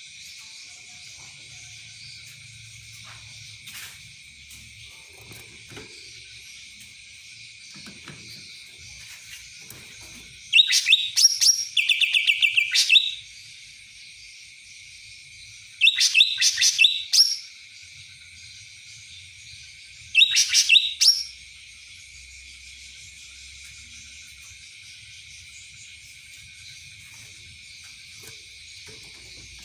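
A cucak ranting songbird singing three short bursts of rapid, high chirping notes, about ten, sixteen and twenty seconds in, a song that its keeper likens to a kapas tembak's. A steady high hiss runs underneath throughout.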